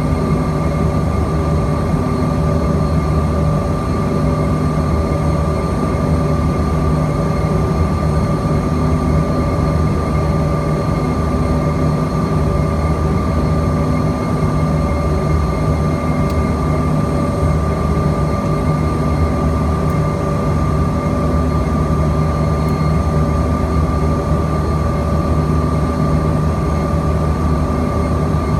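Steady cabin noise inside a Bombardier CRJ-200 airliner: the drone of its rear-mounted GE CF34 turbofans and rushing air, with a steady low hum and a steady high whine, unchanging throughout.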